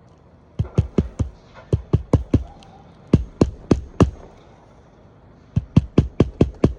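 Hammer driving roofing nails into an asphalt shingle: sharp strikes in three quick runs of four, then a run of about seven near the end.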